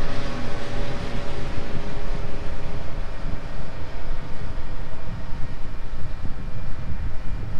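Maintenance-of-way crane train rolling away along the track: its running noise and a set of steady tones fade over the first few seconds, over a loud, uneven low rumble.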